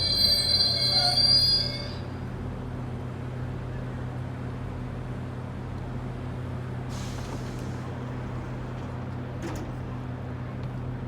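GO Transit commuter train giving a high-pitched metallic squeal that cuts off about two seconds in. A steady low hum from the diesel locomotive then runs on.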